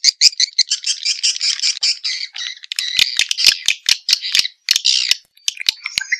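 Swiftlet lure call: a dense, rapid high-pitched chittering of swiftlet calls, with a short break a little after five seconds in.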